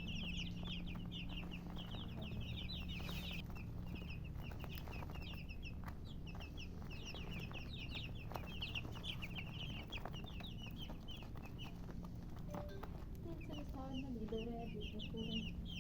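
A group of baby chicks peeping continuously: many quick, high, short chirps overlapping one another.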